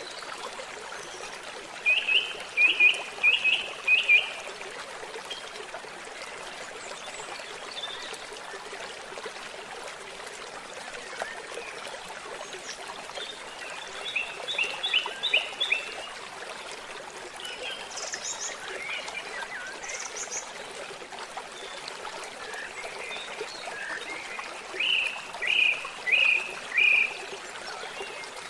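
A stream trickling steadily, with a bird calling over it: three phrases of four or five short, quick notes, spaced about ten seconds apart, and a few fainter high notes in between.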